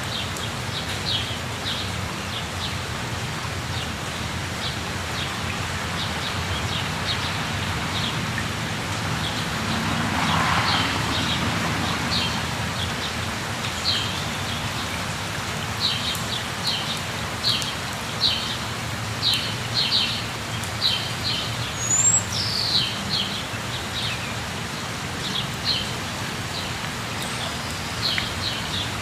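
Steady rush of falling water from a waterfall, swelling briefly about ten seconds in. Birds chirp over it in short, high, quick clusters, growing busier in the second half.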